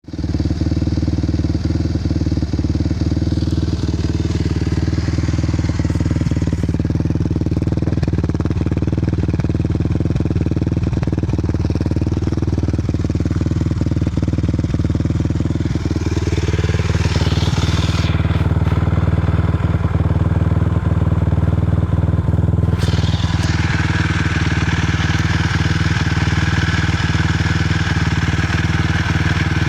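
Suzuki LT-R450 quad's single-cylinder four-stroke engine running steadily at idle, with a scatter of sharp ticks over it: the weird noise the owner reports, though the engine still has power. The higher part of the sound changes about two-thirds of the way through.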